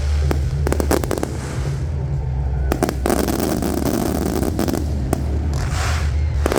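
Fireworks going off in the sky: clusters of sharp cracks about half a second in, again around three seconds and near the end, with crackling in between.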